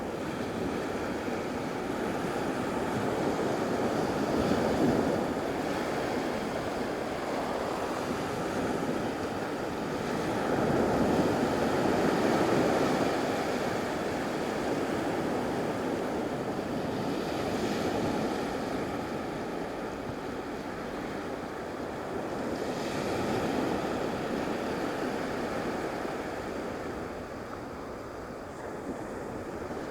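Surf breaking and washing up the beach, swelling and easing in slow waves every several seconds, with some wind on the microphone.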